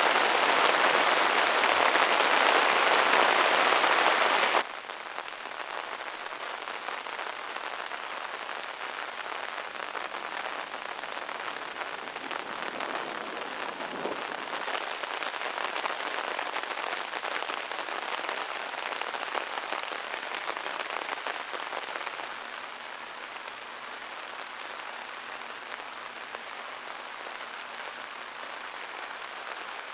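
Heavy rain pouring down steadily. It is loud at first, drops abruptly about four and a half seconds in, and continues more softly.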